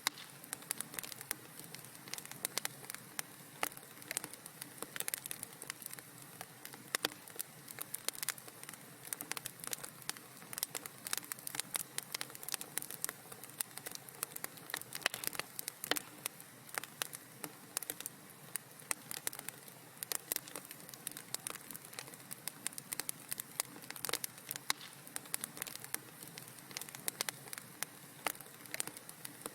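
Fire in a fireplace crackling: many irregular sharp pops and snaps over a soft steady hiss.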